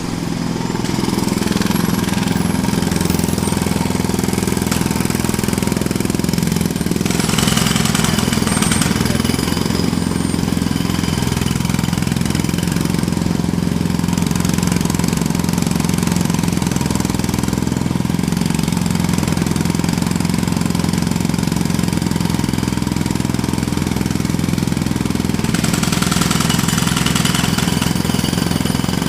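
Jackhammer starting abruptly and running steadily with rapid, evenly repeated blows; the sound turns brighter and hissier for a couple of seconds about a quarter of the way in and again near the end.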